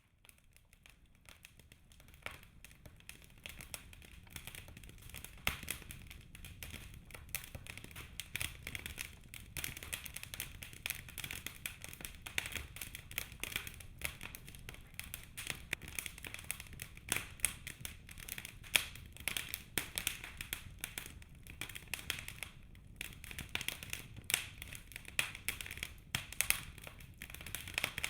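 Birch logs burning in a fireplace: steady, irregular crackling with occasional louder snaps over a low rumble of the flames. It fades in over the first few seconds.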